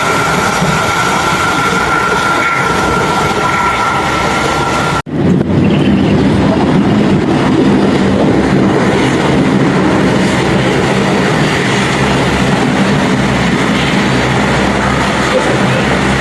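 Aircraft engines running loudly: a steady roar with a high whine over it, broken off by an abrupt cut about five seconds in, after which a lower, steady engine rumble continues.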